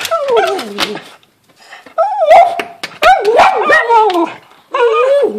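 Dog whining and yipping in high, falling cries, in three bouts, the longest in the middle: an excited dog wanting at a bird on the other side of a window.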